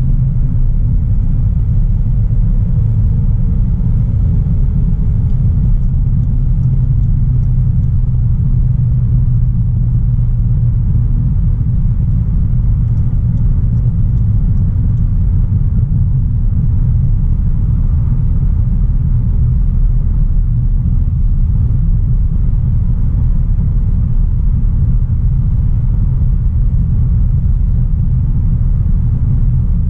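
Audi A3 Sportback's 1.4 TFSI turbocharged four-cylinder petrol engine running at a steady cruise, mixed with tyre and road rumble from the moving car. The sound is a constant low drone with no gear changes or revving.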